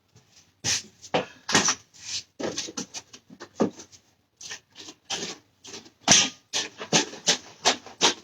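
A quick, irregular run of short scraping and rubbing strokes in a kitchen, about two or three a second, as of hands or a utensil working against a board or pan.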